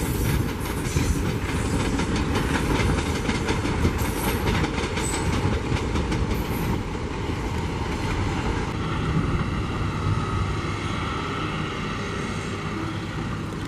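Passenger coaches of an express train rolling past, steel wheels clicking over the rail joints in a steady clickety-clack. About two-thirds in the clatter turns smoother and a little quieter.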